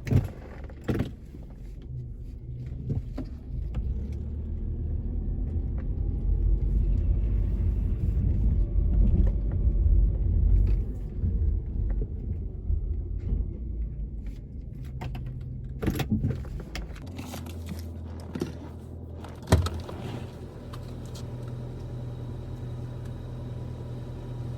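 1995 Subaru Legacy wagon driving, a low rumble that grows louder, then settling into a steady low idle hum about seventeen seconds in. A few sharp knocks, the loudest near the end.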